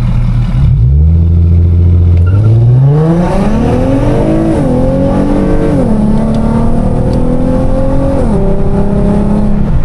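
Infiniti G37's 3.7-litre V6 through an aftermarket exhaust (high-flow cats, Y-pipe, resonators, 3.5-inch mid pipe, axle-back), recorded at the exhaust, accelerating hard from a stop. The engine note climbs in pitch and drops at upshifts about four and a half seconds in, again about a second later, and once more near the end.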